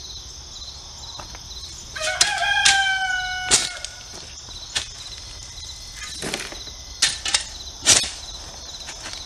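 A rooster crows once, starting about two seconds in, over steady cricket chirping. Several sharp scrapes and knocks follow, the loudest about seven to eight seconds in.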